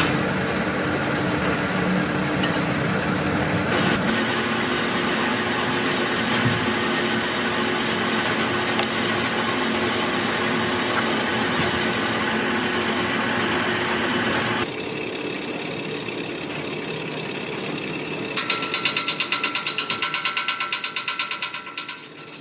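Workshop machinery running steadily with a mechanical hum. It shifts in tone a few seconds in and quietens about two-thirds of the way through. Near the end comes a fast, regular clatter of about five or six beats a second.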